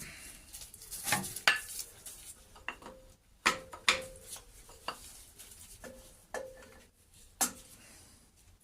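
Steel ring spanner clinking and knocking against metal while working a tight nut on the engine: a series of sharp metallic clinks, a few with a short ring.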